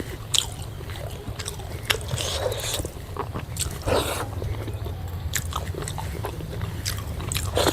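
Close-up eating sounds: chewing and biting, with irregular small clicks and wet smacks.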